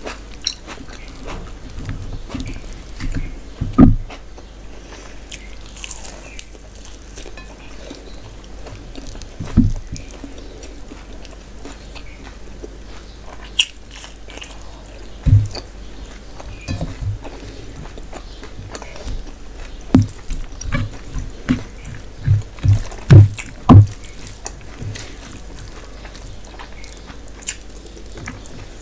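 Close-miked eating sounds: chewing and wet mouth sounds of rice and mutton curry eaten by hand, with scattered soft low thumps and clicks and a cluster of stronger thumps near the end.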